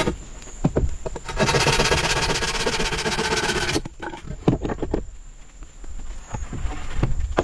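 Hand woodworking on timber: scattered sharp knocks, with a fast even rattle of strokes lasting about two seconds near the start. A steady high insect drone runs underneath.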